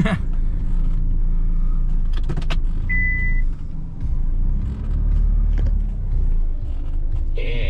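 Ute engine running as the vehicle is manoeuvred to turn it around, with a click at about two and a half seconds and a short single electronic beep about three seconds in.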